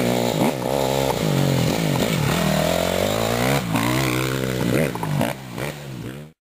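Motocross motorcycle engines revving, their pitch rising and falling again and again; the sound cuts off suddenly near the end.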